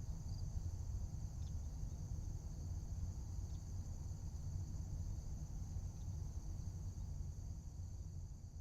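Steady chorus of insects such as crickets, a continuous high trill, over a low rumble of wind, with a few faint short chirps; it begins to fade out at the very end.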